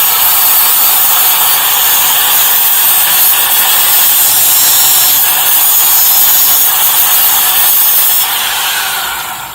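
A hand-held shop power tool running loudly and steadily with a dense, hissing whirr, then dying away near the end.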